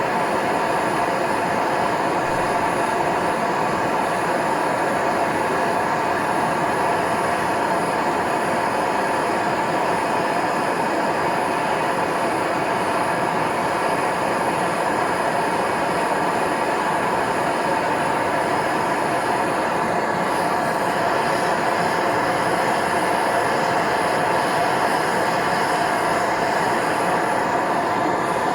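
A brazing torch burning with a steady rushing hiss, heating copper and aluminium pipe to braze them with a flux-coated rod.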